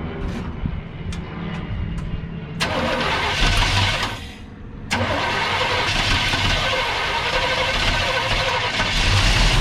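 Supercharged engine of a long-sitting 1952 Mercury being started on fuel poured into the carburetor bowl. A few clicks, then it fires about two and a half seconds in, nearly dies a second and a half later, and catches again about five seconds in, running on.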